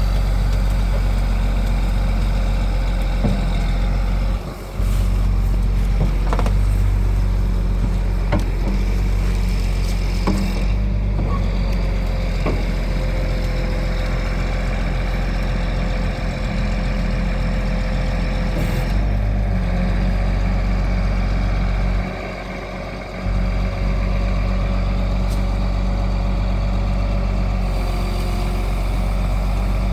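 Freightliner truck's diesel engine running steadily, with a few scattered knocks and clanks.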